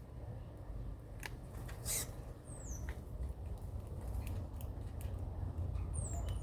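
Small birds giving short, high, falling chirps, two of them, among scattered sharp clicks over a low rumble.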